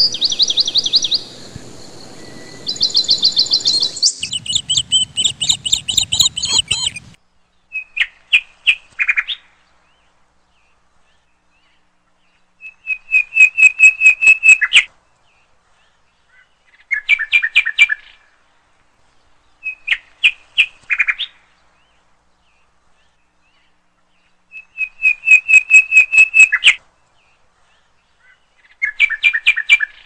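Small songbird calling in quick trains of high chirps, each burst lasting a second or two and repeated every few seconds with silence between.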